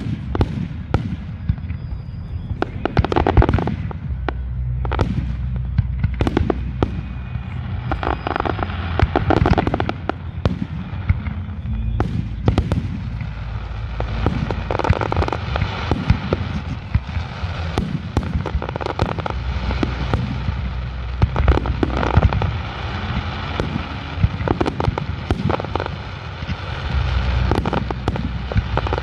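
Aerial fireworks display: shell bursts booming in quick succession, several a second, over a continuous low rumble. From about halfway through, dense crackling from crackle stars fills the gaps between the bangs.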